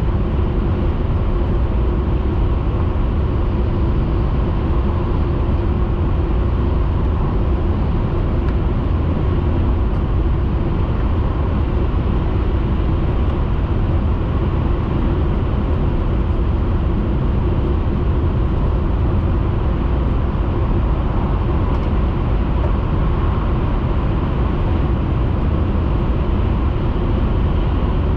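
Steady running noise of a Hayabusa Shinkansen train at speed, heard inside the passenger cabin: a constant low rumble with a faint hum.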